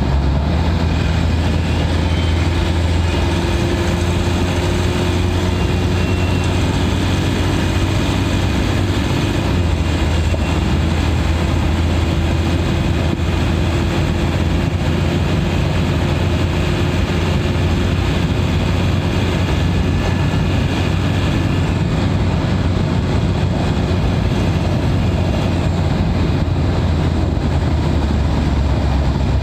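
Mitsubishi Pajero Sport's turbo-diesel engine heard from inside the engine bay, running steadily at highway cruising speed: a constant low drone with a faint high whistle over it.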